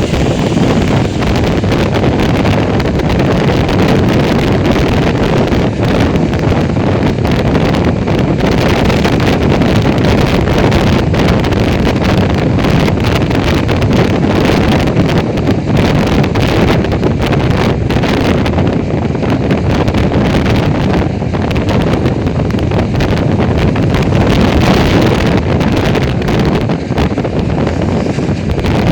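Heavy wind buffeting the microphone on a moving motorcycle, a steady loud rush mixed with road and riding noise.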